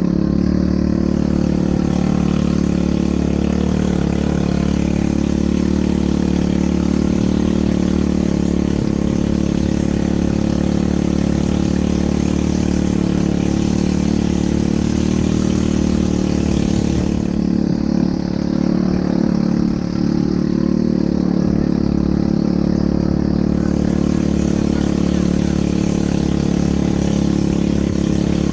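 ATV engine running steadily in a constant drone, with a hiss over it that thins for several seconds a little past the middle.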